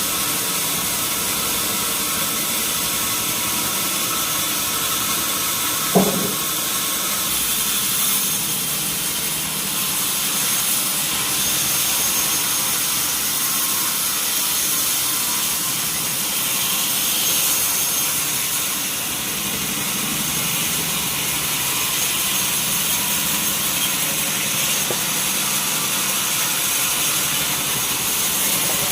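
Sawmill saw machinery running steadily with a loud, hissing whine, with one sharp knock about six seconds in.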